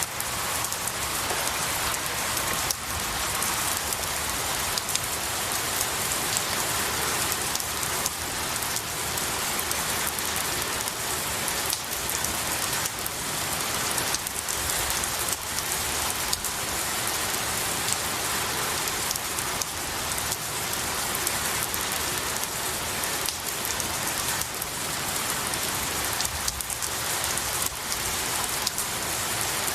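Steady rain falling on pine needles and trees, a dense even patter of drops.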